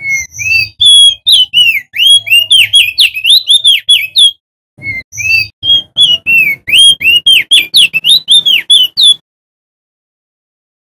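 Male crested white-eye (opior jambul) singing: two long, rapid strings of loud whistled notes, each note swooping up and down. They are separated by a short break and stop a couple of seconds before the end.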